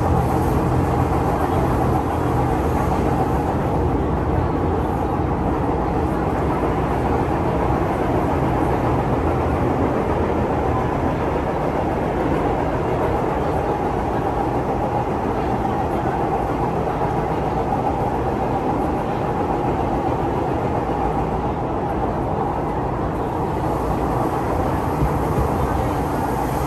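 MTR Disneyland Resort Line M-Train running steadily along the line: an even rumble of wheels on rail with a steady mechanical hum from the train's drive.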